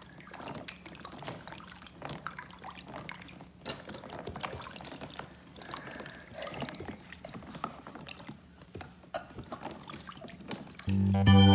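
Water trickling and splashing through a toy water-ride playset, with small plastic clicks and knocks. Near the end, organ-like keyboard music starts abruptly and loudly.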